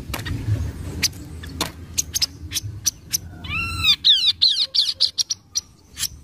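Recorded calls of a kaso-kaso bird, played as a lure: a string of sharp, short chips, then about three and a half seconds in a quick run of arched, repeated notes, with a low hum underneath.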